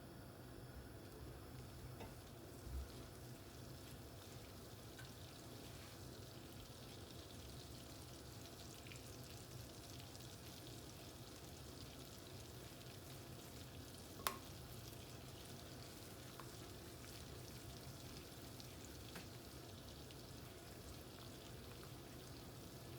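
Food frying in a pan: a faint, steady sizzle with scattered small crackles, a soft knock about three seconds in and one sharp click or tap about fourteen seconds in.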